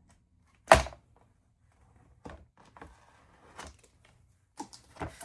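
One sharp thunk about three-quarters of a second in, then a few light taps and rustles as craft pieces are handled on a work surface.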